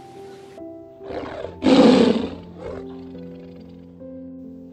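A tiger roaring once: a short lead-in growl, then a loud roar about two seconds in that fades away. Soft background music with held notes plays underneath.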